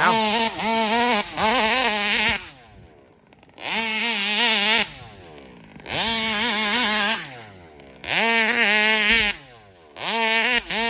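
Large-scale RC car's big-bore two-stroke gas engine at full throttle in five bursts of about a second each. Each burst revs up quickly, holds a steady high pitch, then drops back toward idle between runs.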